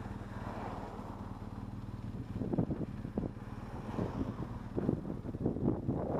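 Motorcycle engine running at a steady pitch while riding, with wind buffeting the microphone in gusts that grow from about two seconds in.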